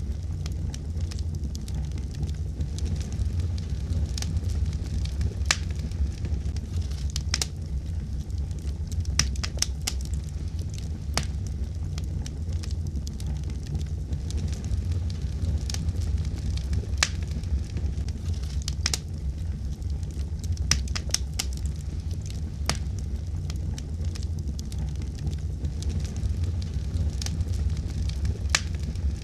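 Fire burning in a fireplace, with sharp crackles and pops at irregular moments over a steady low rumble of the flames.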